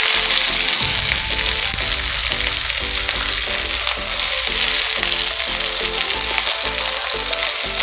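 Sliced onions sizzling steadily in hot oil in a kadai, freshly added over frying nigella seeds and slit green chillies, at the start of frying them to a reddish brown.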